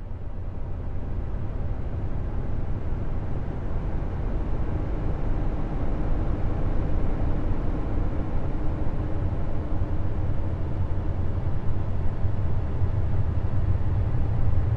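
Deep, steady rumbling roar, heaviest in the bass, slowly growing louder: one of the 'planet sounds', spacecraft radio and plasma-wave recordings turned into audio.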